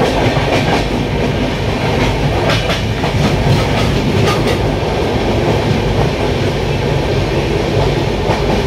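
Loud, steady rumble and wheel clatter of trains at speed, heard at the open door of a moving passenger coach as another express train rushes past on the next track. A run of sharp clicks stands out between about two and four and a half seconds in.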